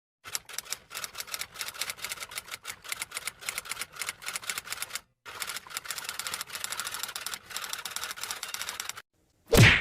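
Typewriter sound effect: rapid, uneven key clicks that pause briefly about halfway through, then one short, loud burst near the end.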